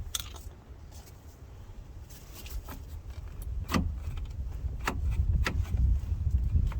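Scattered sharp metallic clicks and clanks, four or five of them, as a dual-piston front brake caliper on a Jeep Grand Cherokee is worked loose off the rotor, the pad catching on the worn rotor edge. A low rumble runs underneath and grows louder after the middle.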